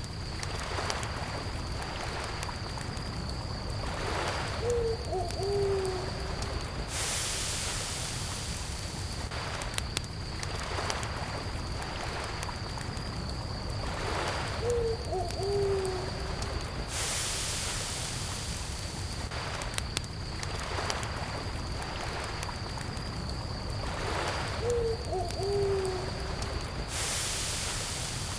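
Campfire crackling steadily, with a constant high cricket chirr and a soft wash of lake water that swells every ten seconds or so. Three times, about ten seconds apart, an owl gives a short, low hoot.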